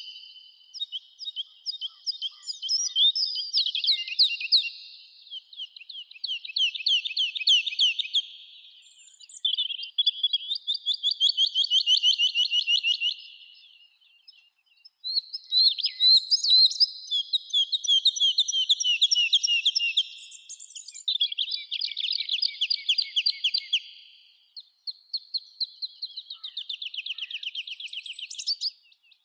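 Songbirds singing: about six fast, high trilled song phrases, each a few seconds long, one after another with short pauses between them.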